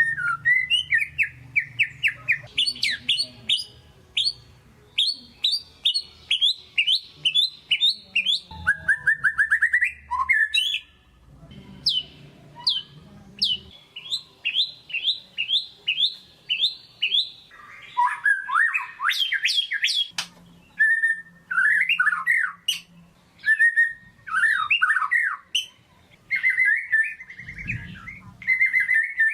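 White-rumped shama (murai batu) singing a continuous, varied song: fast runs of repeated whistled notes and trills that change to a new phrase every few seconds.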